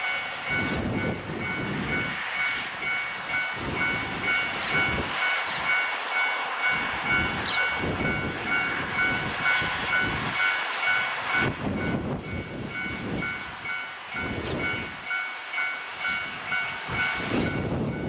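A train running over a railway bridge, its wheels clacking over the rail joints in a steady rhythm, with a steady high-pitched whine over it.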